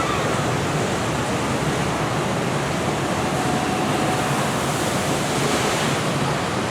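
Steady rush of churning water from a river rapids ride's channel and falls.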